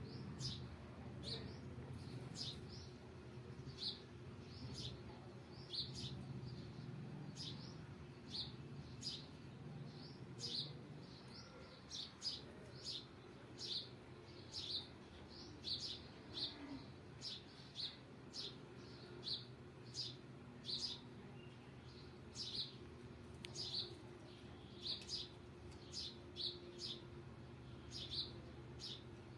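Parrot chirping over and over: short, high chirps about one and a half a second, repeated steadily.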